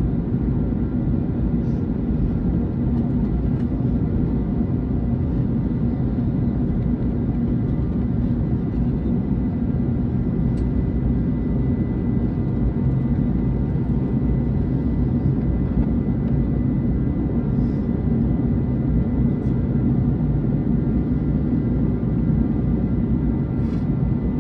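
Cabin noise of an Airbus A321neo taxiing, heard from inside the cabin: the engines run at idle as a steady low rumble with a thin steady whine. A few faint clicks occur here and there.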